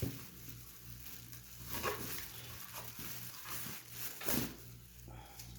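Faint handling sounds of car-mirror parts and wiring being worked by hand: a few short rustling swishes, the clearest about two seconds in and again near four and a half seconds, over a steady low hum.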